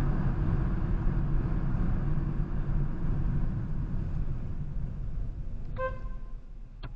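Dash-cam recording of a car driving: a steady rumble of engine and road noise, easing a little in the later seconds. A short beep sounds near the end, followed by a click.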